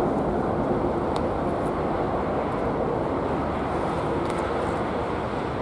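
Train rolling over the level crossing: a steady rumbling noise that eases slightly toward the end, with a few faint high ticks.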